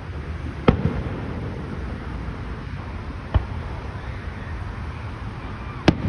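Fireworks shells bursting: three sharp booms a couple of seconds apart, over a steady low rumble of wind and background noise.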